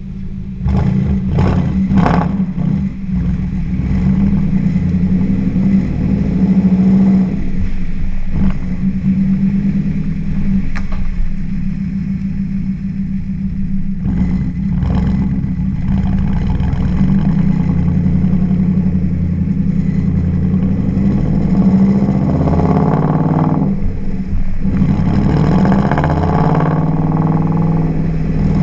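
Audi B7 S4's 4.2-litre V8 running through a custom Akrapovic cat-back exhaust, a steady deep exhaust note with the engine revved up and back down a few times, most clearly near the end.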